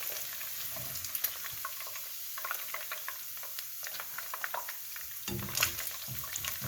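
Hot oil sizzling and crackling around chicken pieces on their second fry as they are lifted out, with light clicks and a louder knock about five and a half seconds in.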